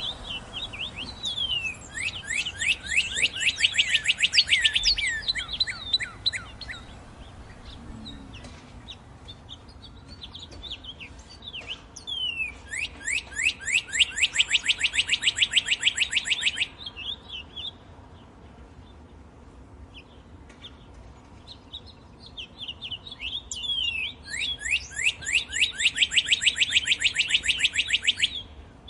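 Northern cardinal singing: three song phrases about ten seconds apart. Each opens with a few down-slurred whistles and runs into a fast series of quickly repeated sweeping notes.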